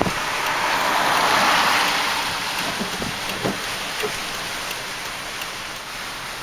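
A strong storm gust of wind with rain: a rushing noise that swells about a second in and then slowly eases, with a few soft knocks.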